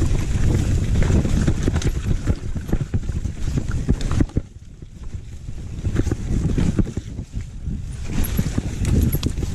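A downhill mountain bike riding a rough trail: wind buffeting the microphone, with the rattle and clatter of the bike's tyres, chain and frame over bumps. It goes quieter for about a second near the middle, then picks up again.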